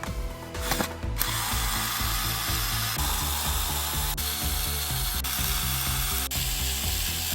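Keyang DD-1200 12V cordless drill driver running under load as it drives a long self-drilling screw. It starts about a second in and runs steadily, with background music underneath.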